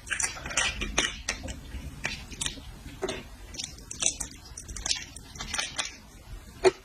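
A person chewing and biting seafood close to the microphone: an irregular run of short mouth clicks and smacks.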